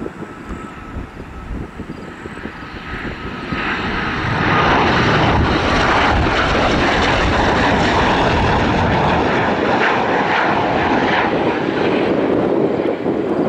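Northrop T-38 Talon's twin turbojet engines on approach: a jet rush that swells sharply about four seconds in, then stays loud and steady as the jet goes by.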